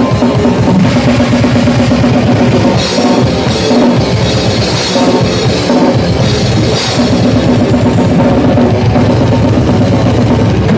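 Rock band playing loudly at rehearsal, the drum kit driving with a busy bass drum and repeated cymbal crashes over sustained pitched instruments.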